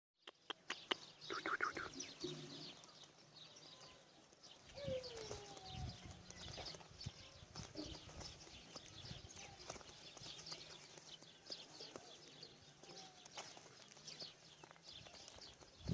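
Pigeons in a flock: many short high chirps, a few lower falling calls, scattered clicks and wing flaps.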